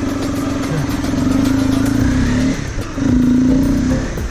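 Motorcycle engine running under throttle as the ride gets under way. It dips briefly about two and a half seconds in, then picks up again.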